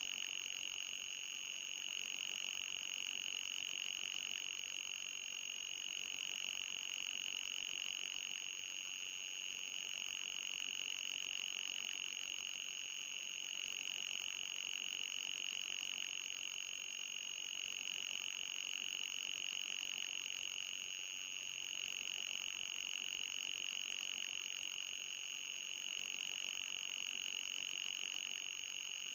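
Electronic anti-mosquito repellent sound: a steady, high-pitched synthetic tone, with a fainter, higher tone above it, held unchanged throughout. Despite the 'ultrasonic' label, it sits well within hearing.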